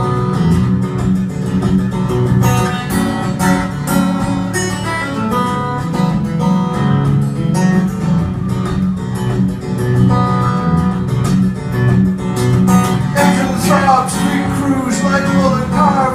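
Acoustic guitar played solo in an instrumental break of a folk song, a steady picked bass line under a melody of single notes, with gliding, bending notes in the last few seconds.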